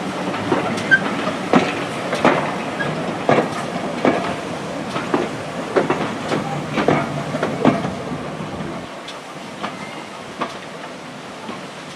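Train wheels clicking over rail joints as a train runs past, irregular sharp clicks over a steady rumble. The clicks die away about eight seconds in, leaving a quieter rushing noise.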